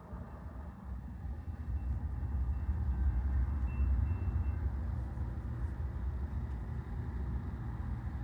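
Low rumble of a passing Amtrak train, building over the first few seconds and then holding steady.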